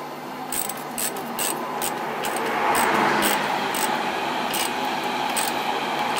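Hand tools working on metal: irregular sharp metallic clicks, about one or two a second, over a steady background noise that grows louder about halfway through.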